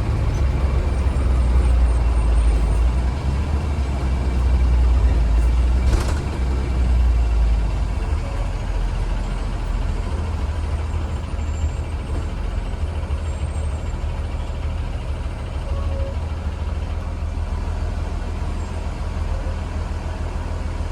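2015 Blue Bird Vision school bus on the move, heard from inside the cabin: a steady low engine and road rumble that eases a little after about eight seconds. A single sharp click sounds about six seconds in.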